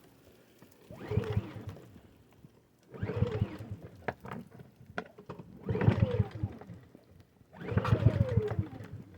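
Small Ryobi gas engine being cranked cold by its pull cord: five pulls of about a second each, roughly two seconds apart. The engine turns over with a fast chugging on each pull and slows as the pull ends, but does not catch.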